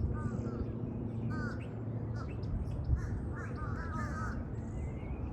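Crows cawing several times, in short arched calls that come closer together past the middle. Small birds chirp high in the background.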